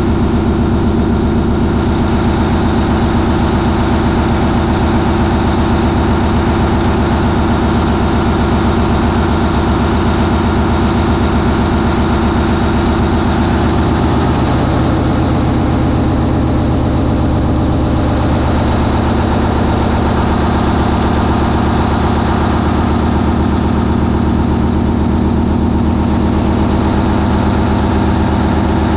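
MAN 20V28/33D STC twenty-cylinder marine diesel running steadily at 940 RPM, then stepping up to 980 RPM about halfway through, its steady drone shifting to a new pitch.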